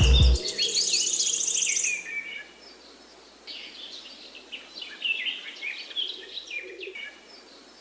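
Small birds chirping and twittering in quick, high calls with a short buzzy trill, busiest in the first two seconds, then a lull, then chirping again from about three and a half seconds on. Music cuts off just as it starts.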